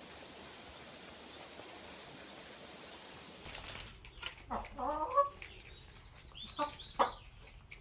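Faint steady hiss, then about three and a half seconds in a short noisy burst followed by a chicken clucking and squawking in several short calls.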